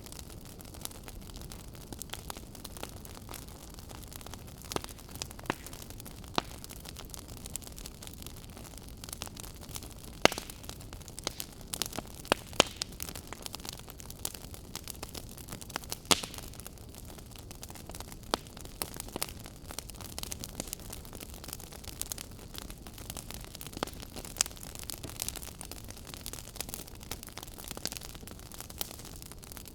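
Wood fire burning in a fireplace, a steady low hiss with irregular sharp crackles and pops from the burning logs, a cluster of louder pops about ten to sixteen seconds in.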